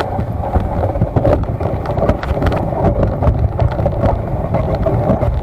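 Moving vehicle: a steady low rumble with frequent short knocks and rattles.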